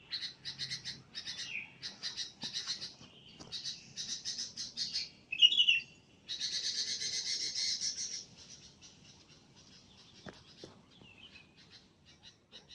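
Small birds chirping and trilling in quick runs of high repeated notes, with one short sharp chirp the loudest moment about five and a half seconds in. The chirping thins to fainter, scattered notes after about eight seconds.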